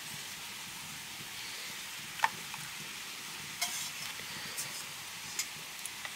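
Food sizzling steadily in a frying pan, with three or so light clicks spaced through it, the sharpest about two seconds in.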